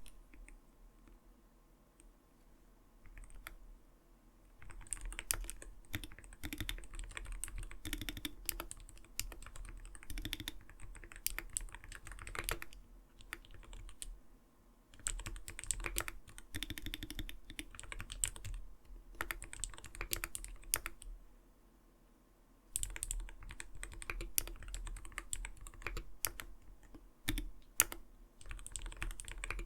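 Typing on an Arbiter Studio Polar 65 Phantom mechanical gaming keyboard: runs of soft, rounded 'kotokoto' key clacks, broken by a few short pauses, the longest at the start and about two-thirds of the way through.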